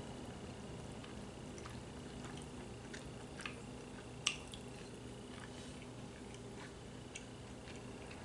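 Eating sounds: faint chewing and wet squishing of stew, with scattered small clicks of utensils against a bowl and one sharper click about four seconds in, over a low steady hum.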